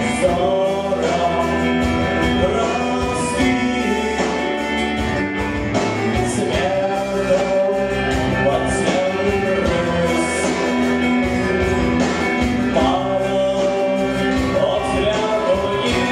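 A band playing a song, with a male voice singing over sustained instrumental chords.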